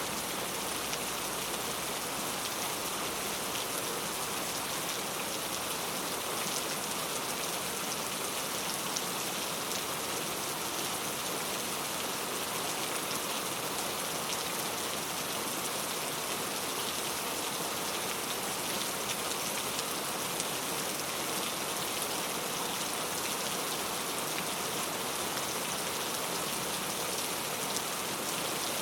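Heavy rain falling steadily on mango tree leaves: a dense, even hiss with many fine drop taps.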